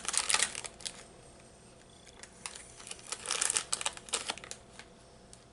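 Plastic snack wrapper crinkling in spurts as a soft cookie is handled, in two bursts with a quiet gap between.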